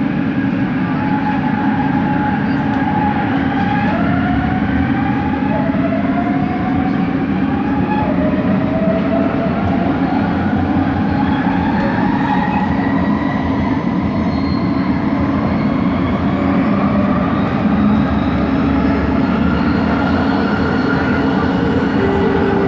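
Bombardier Innovia ART 200 train heard from inside the car while under way: a steady running rumble, with a linear-induction-motor whine that glides upward in a series of short steps. The whine is the train's unusual motor noise.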